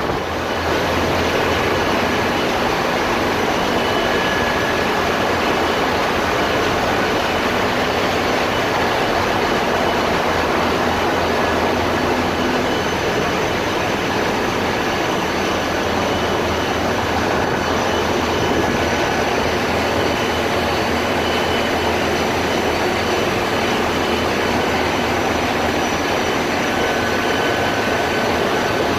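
Ship's engine-room diesel machinery running: a loud, unbroken din with faint steady high whines.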